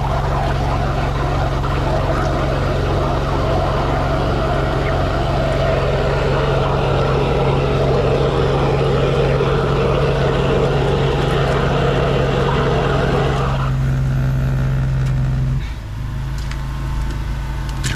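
High-pressure drain jetter running, its pump and engine humming steadily while water rushes through the hose and nozzle into a flooded drain pipe. The rushing stops about 14 seconds in, and the machine's hum drops a couple of seconds later as it eases off.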